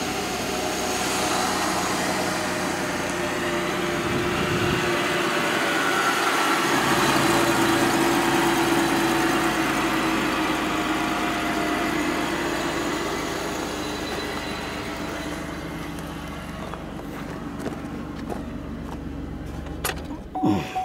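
2010 Chevrolet Impala's 3.5-litre V6 idling steadily on a jump start; the car only starts with a jump. It grows louder toward the middle, then fades.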